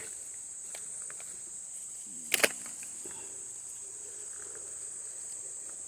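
Steady high-pitched insect chirring, typical of crickets. About two and a half seconds in comes a brief, sharp clatter as gear is set down.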